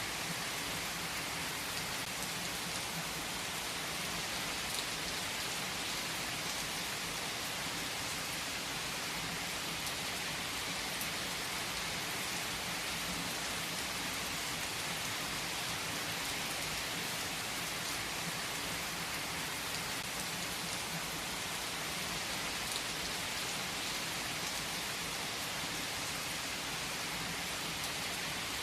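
Steady rain falling on a surface: an even hiss with scattered small ticks of drops.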